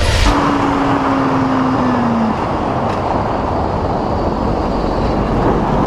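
Road and wind noise from a moving dirt bike, with a steady engine note that sinks slightly in pitch and stops about two seconds in.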